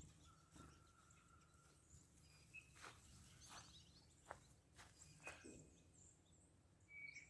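Faint bird calls: one held whistled note early on, then about five sharp chip notes spread through the middle, and short high notes near the end.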